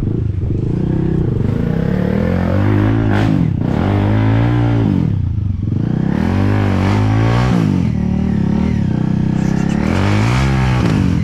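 Enduro dirt bike engine running hard, its pitch rising and falling again and again as the throttle is opened and closed.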